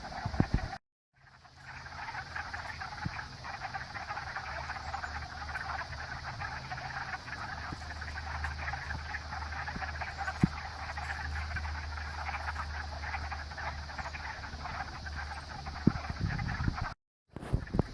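A dense chorus of many frogs calling at once at a pond, a continuous mass of rapid calls. The sound drops out abruptly twice, about a second in and near the end.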